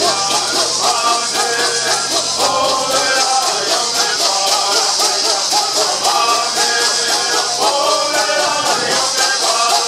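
Southern California bird songs: a group of men singing in unison over a steady, even shaking rhythm of gourd rattles.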